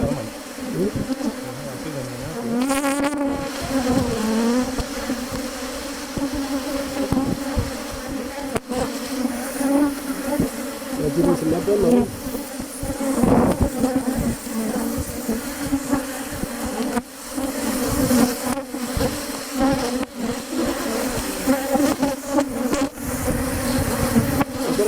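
Honeybees buzzing in a steady hum around an opened Langstroth hive, the pitch swelling and sliding briefly around three and thirteen seconds in.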